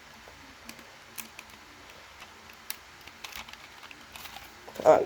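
Small plastic clicks and taps of a smoke alarm being handled while its battery compartment is worked at, the battery stuck in it, with a louder clatter near the end.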